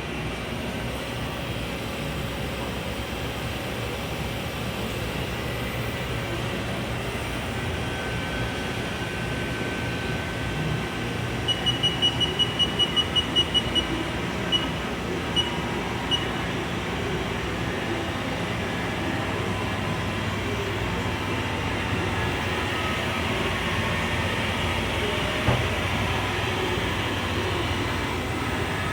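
Steady mechanical hum of running machinery. About twelve seconds in, a quick run of about a dozen short, high-pitched beeps sounds, followed by three single beeps about a second apart.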